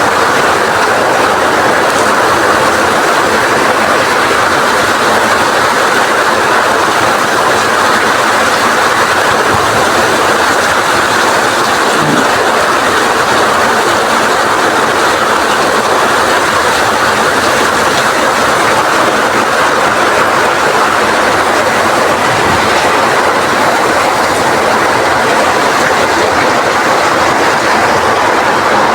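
Rain falling heavily with strong wind, a loud steady hiss that does not change.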